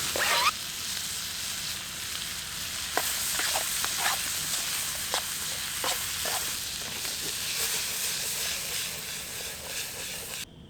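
Food sizzling as it fries in butter in a pan: a steady hiss with scattered pops and clicks, which cuts off suddenly near the end.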